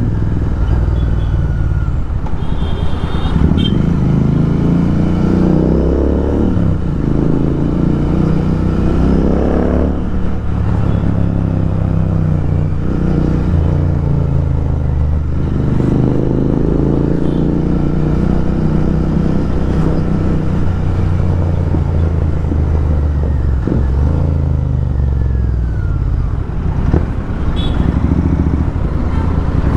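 Royal Enfield Continental GT 650's parallel-twin engine running through aftermarket Thrive exhausts, loud, while riding in traffic. The exhaust note climbs in pitch several times as the bike accelerates through the gears and drops back as the throttle is rolled off.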